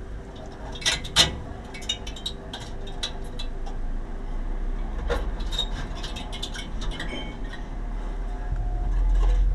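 Scattered clicks, clinks and knocks of small hard objects being handled, over a low rumble that grows louder near the end.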